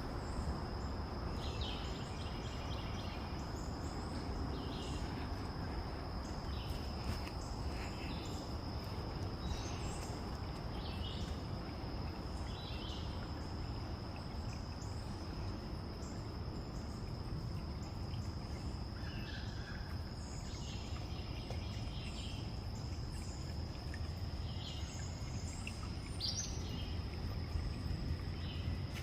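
Outdoor nature ambience: a steady high-pitched insect drone throughout, with scattered short bird chirps, over a low steady rumble.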